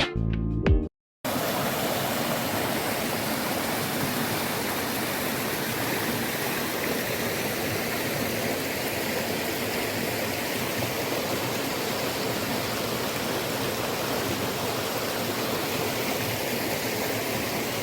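Mountain valley stream rushing steadily. It cuts in suddenly about a second in, after a short dropout.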